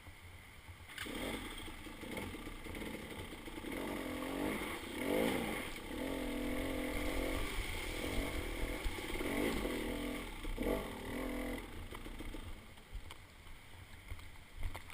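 Dirt bike engine running and revving, its pitch rising and falling over and over. It starts about a second in and fades out about three seconds before the end.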